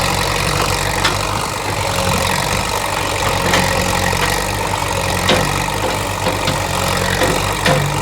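Yanmar 424 compact tractor's engine running steadily and loud, with a few short sharp knocks scattered through it.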